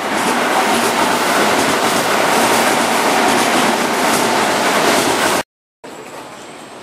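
Keihan 9000-series electric train running close past: a loud, steady running noise of wheels on rails. It cuts off sharply a little over five seconds in, and after a brief silence a quieter, steady running sound of the train approaching from further off follows.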